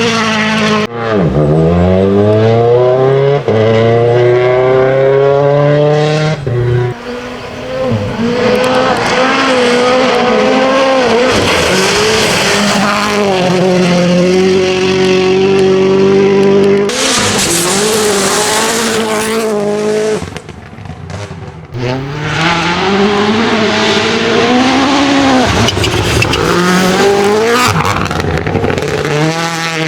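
Hyundai i20 N Rally1 rally car driven flat out on gravel: the turbocharged four-cylinder engine revs up through the gears with quick shifts, and gravel and tyres hiss and spray under it. About two thirds of the way through the engine briefly drops away, then climbs hard again.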